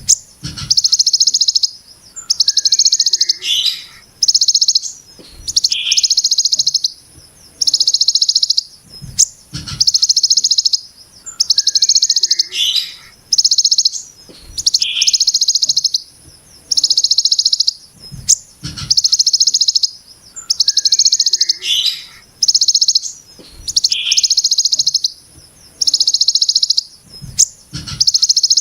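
Ciblek gunung giving its harsh, rapid 'brem' trill, a dense buzzing burst about a second long repeated roughly every one and a half to two seconds. A steady high hiss runs beneath, with a few sharp clicks.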